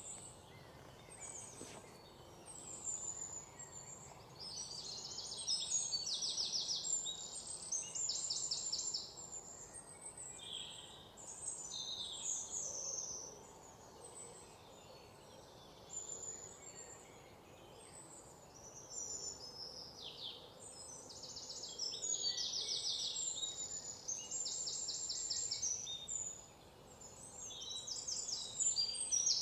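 Small forest birds chirping and singing high, rapid trills that come and go every few seconds, over a faint steady background hiss.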